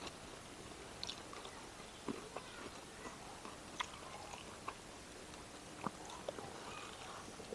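A person chewing food, with scattered faint crisp clicks of the mouth and bites.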